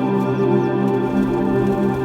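Background music: slow ambient, new-age track with sustained held chords.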